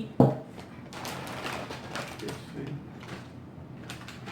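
A sharp knock just after the start, then faint rustling and handling of a snack package being opened.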